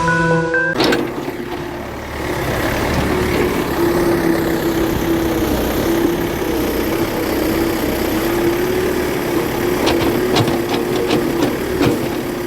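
Small motor of a toy construction vehicle running with a steady whine, with a few sharp clicks near the end. Background music cuts off under a second in.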